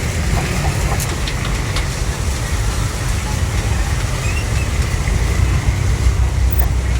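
Steady low rumble of busy street noise, with a few faint clicks and clinks over it.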